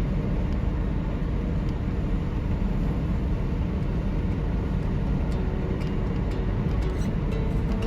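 Steady rumble of a car driving on the highway, with a few faint ticks in the second half.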